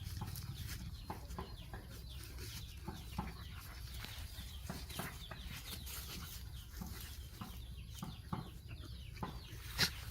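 Chickens clucking in a string of short, separate calls over a steady low rumble, with one louder sharp sound near the end.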